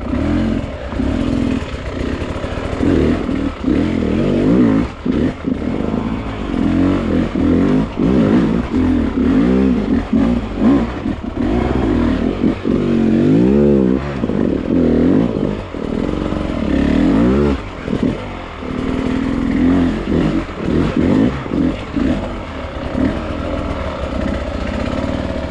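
Beta dirt bike engine revving up and down in constant short throttle bursts, its pitch rising and falling and cutting back briefly several times, over technical hard enduro terrain.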